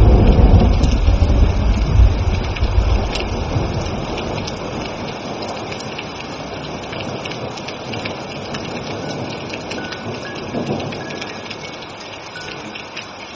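Thunderstorm: a loud rumble of thunder dies away over the first few seconds, leaving steady heavy rain with the patter of drops.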